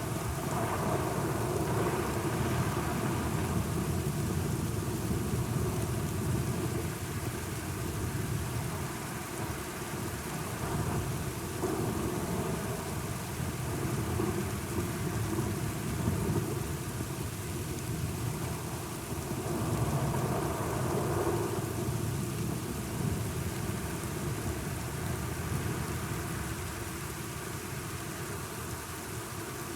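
Steady rain falling through a thunderstorm, with low rolling thunder rumbles that swell near the start and again about two-thirds of the way through.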